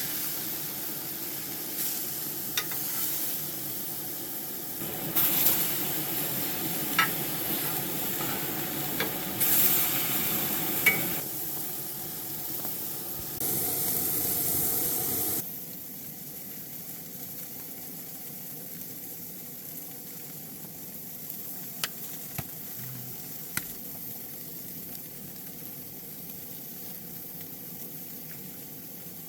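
Burgers frying with a steady sizzle, with louder surges over the first fifteen seconds, then a quieter sizzle with a few light clicks.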